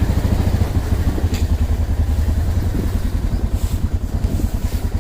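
Motorcycle engine running at low speed with a steady, even low pulse.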